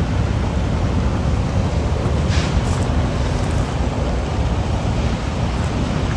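Steady low rumble of a car on the move, heard from inside the car, with a brief hiss about two seconds in.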